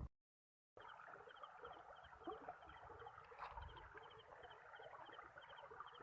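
Faint chorus of small animal calls: a busy chatter with a high little double chirp repeating about twice a second, after a brief moment of dead silence at the start.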